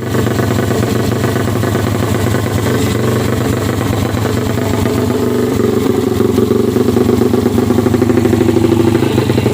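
Yamaha Jupiter MX single-cylinder four-stroke motorcycle engine, bored out to 200cc, running steadily through its exhaust. It gets a little louder and busier about halfway through.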